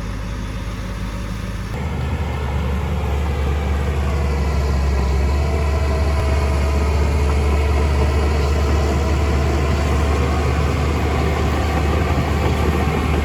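Heavy diesel engine of earthmoving machinery running steadily. About two seconds in its note changes abruptly, and it grows louder over the next few seconds.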